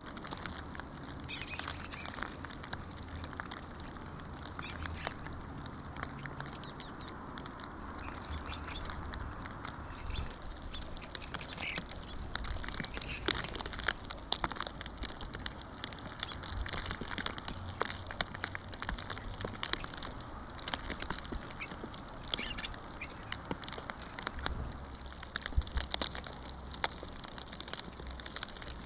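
Eastern bluebirds giving short, soft calls now and then, among many sharp clicks and a steady low rumble.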